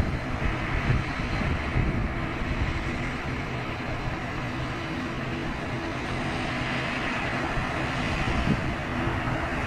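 Aircraft engine running steadily, a continuous noisy drone with a low hum.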